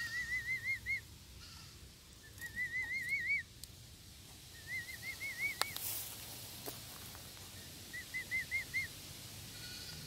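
A bird calling in four short runs of quick, rising whistled notes, each run about a second long and a few seconds apart, with a couple of sharp taps around the middle.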